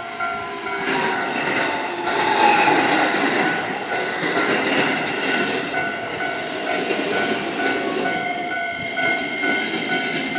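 A Keihan Railway 10000-series electric commuter train passing close by, loudest a couple of seconds in, with a whine that slowly falls in pitch as it goes. A level-crossing warning bell keeps ringing in a steady repeated tone.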